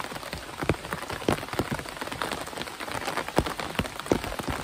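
Heavy rain falling on the rain fly overhead: a steady hiss with many separate drops landing as sharp taps.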